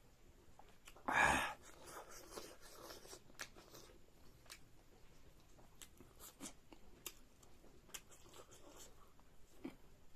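A person eating close to the microphone: scattered small clicks and smacks of chewing, with one louder, short rasping burst about a second in.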